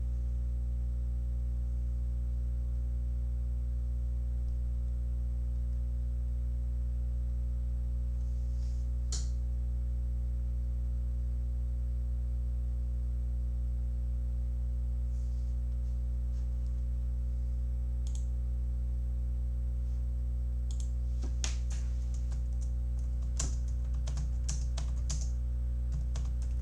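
Steady low hum throughout, with a single click about nine seconds in and a quick run of computer keyboard typing near the end.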